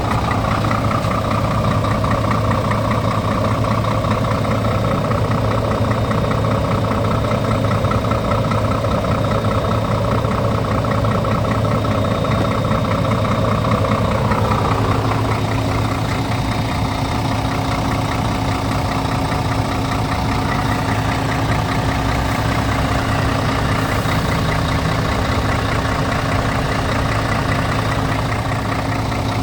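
Scania R tractor unit's diesel engine idling with a steady drone. About halfway through, its tone changes.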